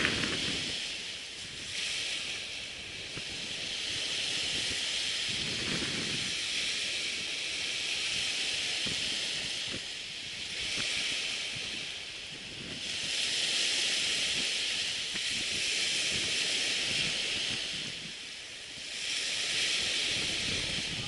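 Surf washing onto a beach, a hissing rush that swells and fades every four to six seconds.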